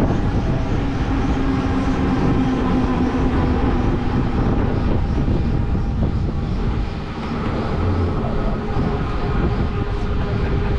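Helicopter engine and rotor running on the ground, a steady loud drone with a few held tones; it dips slightly about seven seconds in.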